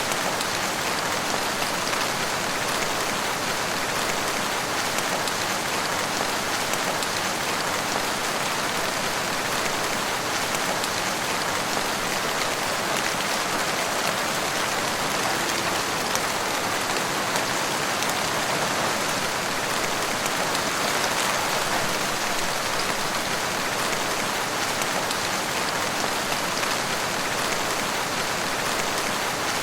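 Steady rain falling, an even hiss of drops with fine patter and no break or change.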